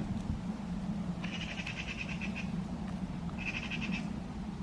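Two high, rapidly pulsing animal calls, the first about a second in and lasting about a second, the second shorter near the end, over a steady low hum.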